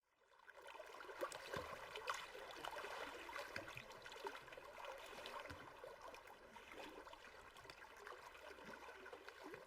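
Faint trickling, lapping water.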